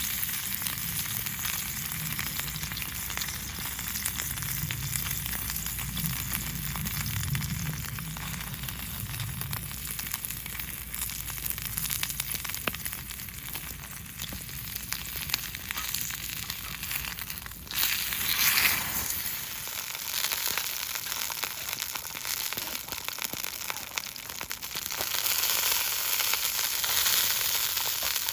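Food sizzling in a pan over a campfire: a steady hiss dotted with small crackles, with a louder surge about two-thirds of the way in and again near the end.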